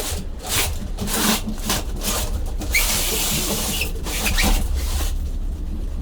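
Scraping and rubbing of boxed refrigerators being slid and shifted by hand, in several noisy strokes that ease off after about five seconds, over a steady low hum.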